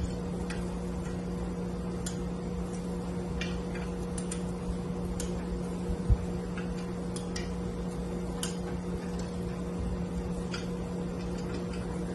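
Steady mechanical hum with scattered light sharp clicks, like small metal tools being handled, and a single low thump about six seconds in.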